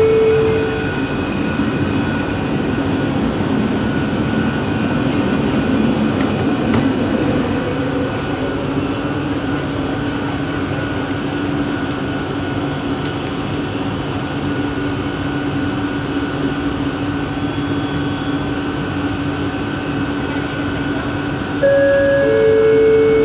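Inside a Bombardier Innovia ART 200 train in motion: the linear induction motor drive gives a steady whine over the rumble of the running train. Near the end a repeating two-note electronic chime starts.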